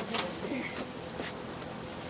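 Faint steady hiss of a lit Roman candle fuse, with low voices in the background.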